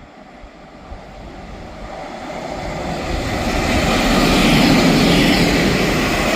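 A train approaching, its running noise growing steadily louder for about four seconds and then holding loud as it draws near.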